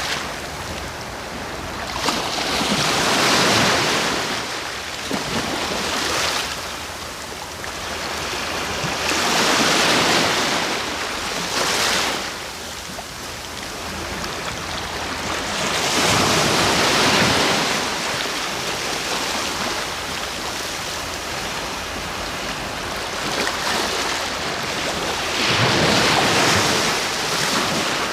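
Sea waves breaking on the shore at night, a continuous rushing wash that swells into a louder surge about every five to seven seconds, five times over.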